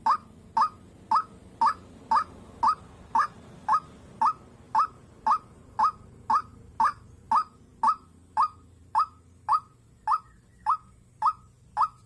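White-breasted waterhen (dahuk) call: one short, sharp note repeated very evenly about twice a second.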